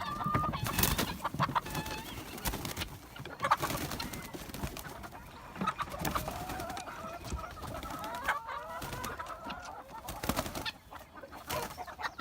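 Flock of laying hens clucking and calling as they are let out of their house onto fresh pasture, many short calls overlapping, with a few sharp knocks among them.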